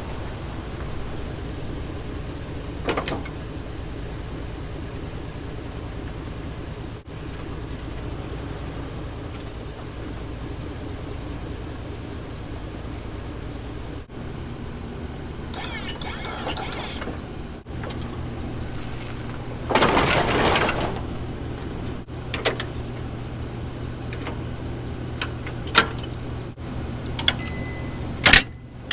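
Truck engine idling steadily, its hum changing about two-thirds of the way in. Two short rushing noises and a few sharp metallic clicks come over it, the clicks near the end.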